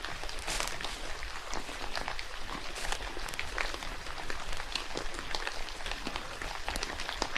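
Rain falling in a forest: a steady hiss with many sharp, irregular drops tapping.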